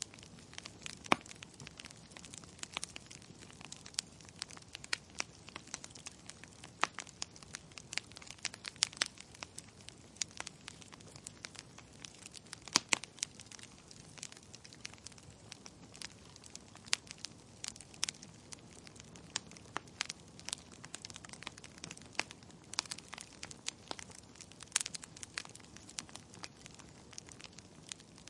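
Wood logs burning in a fireplace, crackling and popping at irregular intervals over a soft steady hiss of the flames.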